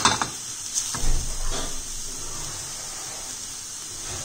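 Grated vegetable stuffing sizzling in a stainless steel pan as it is cooked nearly dry over high flame. A silicone spatula stirs it with a few strokes in the first two seconds, then a steady faint hiss continues.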